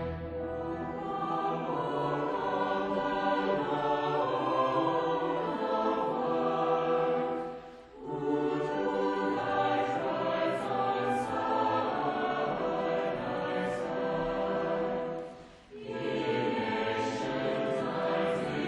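Choir singing with a string orchestra in long held chords, breaking off briefly between phrases about eight and fifteen seconds in.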